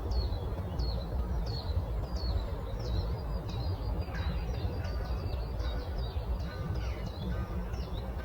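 Small songbirds chirping: a steady run of short, high, downward-sweeping chirps, about two a second, with a few lower calls mixed in, over a steady low rumble.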